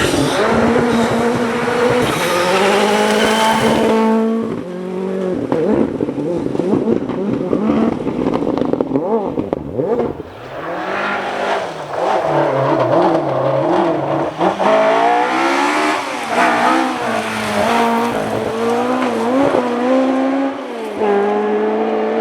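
Rally cars driven hard on a stage, engines revving high and dropping back again and again through gear changes and lifts as they pass. The engine sound dips about four seconds in and again near the middle before the next car comes through.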